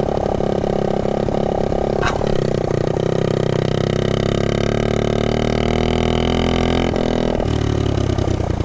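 1969 Honda Z50 mini bike's small four-stroke single-cylinder engine running steadily while being ridden, with a short click about two seconds in. The engine note drops near the end.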